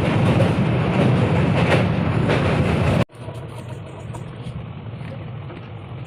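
Loud rumble of a moving passenger train, heard from on board. It cuts off abruptly about three seconds in, giving way to a quieter steady rumble.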